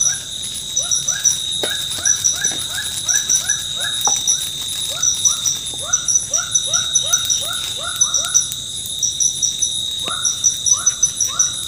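Tropical forest soundscape: an animal calling in a rapid series of short rising-and-falling calls, about three a second, that break off briefly near the end, over a steady high insect buzz with pulsing chirps.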